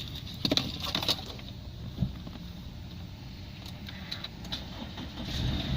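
Clicks and rattles of keys and controls inside the car, then near the end the Subaru Impreza's 2.0-litre FB20 flat-four engine comes in and runs steadily.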